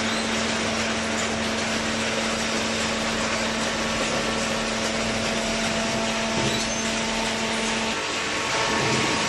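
Hydraulic cardboard baler running: steady machine noise with an even hum that drops out about eight seconds in and returns near the end.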